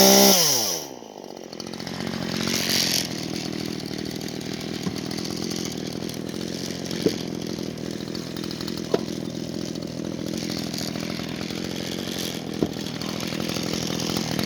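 Two-stroke chainsaw engine dropping from full throttle to idle in the first second, then idling steadily. A few sharp clicks sound over the idle.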